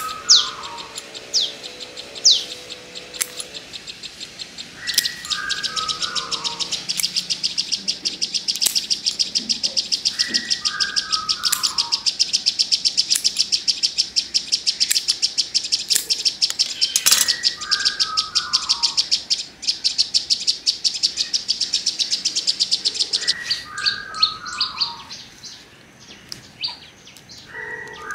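Birds chirping: a fast, even run of high chirps, about six a second, through most of the stretch, and a short falling call that comes back every five or six seconds. Scattered sharp clicks sound over it, scissors snipping water spinach stems.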